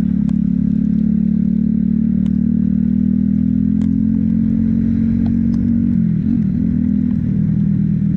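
Motorcycle engine running at a steady road speed while riding, its pitch wavering and dipping briefly about six seconds in.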